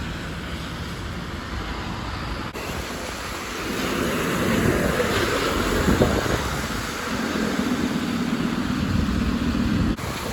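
City bus driving by: the traffic noise swells about a third of the way in, then turns into a steady engine drone that cuts off suddenly near the end.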